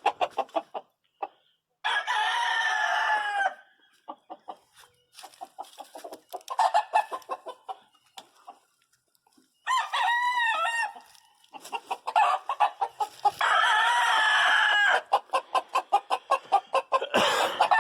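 Gamefowl roosters crowing from their pens, three loud crows of about a second and a half each, with hens clucking in short notes throughout.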